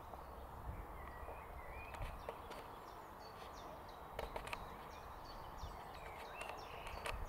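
Faint outdoor ambience: small birds singing short chirping notes over a steady background hiss, with a few sharp clicks.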